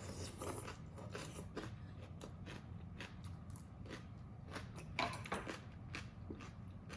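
Close-miked eating sounds: irregular crisp clicks and crunches of biting and chewing, a little louder about five seconds in, over a steady low hum.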